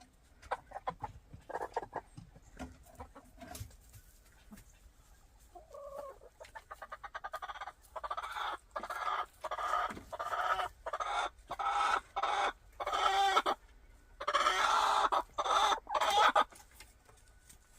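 Upset hen chicken making a run of loud, repeated complaining calls, starting a few seconds in and ending with one longer drawn-out call. The keeper wonders whether the hen wants in to lay an egg.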